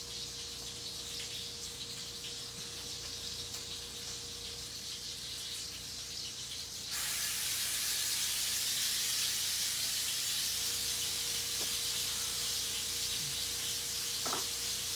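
A steady hiss that suddenly gets louder about seven seconds in and then holds level, over a faint steady hum.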